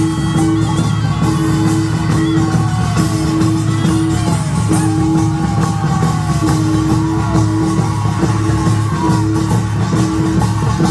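Korean nongak farmers' band playing: dense, fast beating of drums and gongs, with a held melodic line sounding above the percussion.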